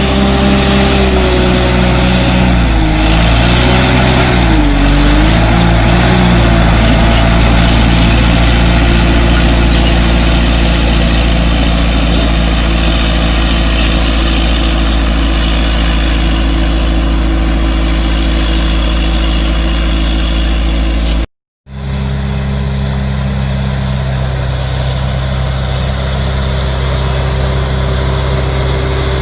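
Heavy earthmoving machine's diesel engine running steadily at working revs. Its pitch sags and recovers about three to five seconds in as it takes load. The sound cuts out completely for a split second about twenty-one seconds in, then resumes.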